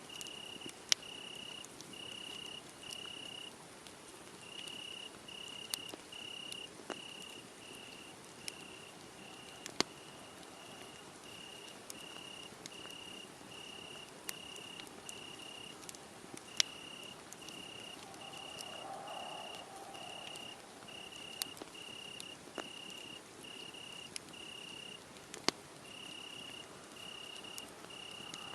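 Crickets chirping in a steady high-pitched pulse, about two chirps a second, over a crackling wood fire. Sharp pops from the fire every few seconds are the loudest sounds.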